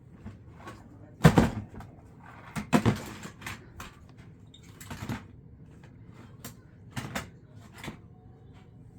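A series of knocks and clunks, as of household objects being handled and set down. The loudest comes about a second in and another near three seconds in, with lighter clicks and knocks after.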